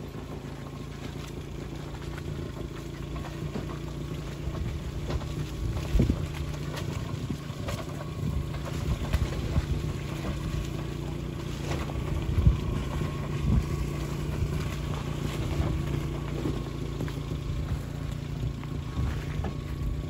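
Land Rover Series III's 2.25-litre four-cylinder petrol engine running steadily on a rough forest track, with occasional knocks and rattles; the loudest knocks come about six and twelve seconds in.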